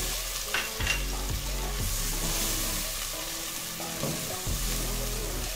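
Onion and ginger-garlic paste frying in hot oil in a steel pot, sizzling steadily as a wooden spoon stirs it. Background music plays underneath.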